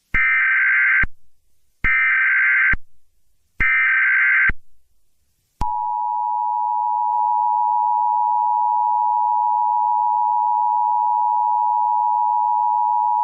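Emergency Alert System warning tones: three short bursts of data tones (the SAME header), then, from about five and a half seconds in, the steady two-tone attention signal that announces an emergency message such as a tornado warning.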